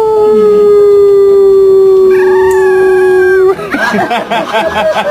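A dog howling: one long held howl that sinks slightly in pitch and breaks off about three and a half seconds in, followed by a quick wavering run of short warbling yowls.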